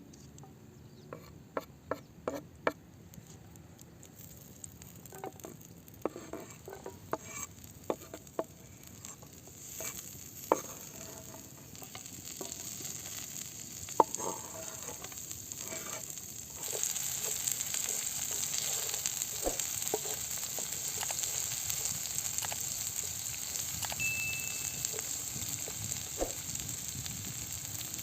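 Food frying in a pan over a campfire: a steady sizzle that grows louder, jumping up about two-thirds of the way in. Before that, scattered sharp clicks and knocks of utensils.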